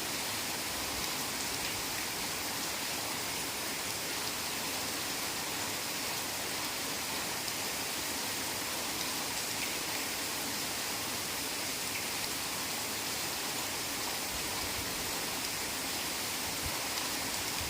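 Heavy rain falling steadily in a forest, a dense even hiss with faint individual drops now and then.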